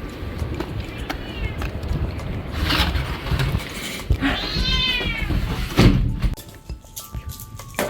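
A cat meowing about three times, the longest meow about halfway through rising and then falling in pitch, over a steady low rumble. A sharp knock, the loudest sound, comes shortly before the rumble stops about six seconds in.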